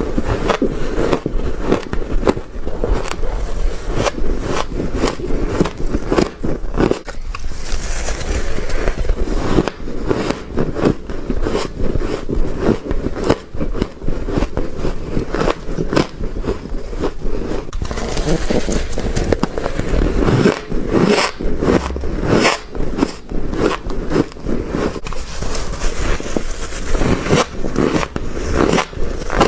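Biting and chewing mouthfuls of freezer frost: a steady, dense run of crisp crunches and scraping crackles, several a second.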